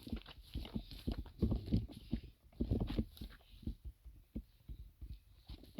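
Footsteps of a person walking on a rocky mountain trail: an uneven string of dull thumps and scuffs.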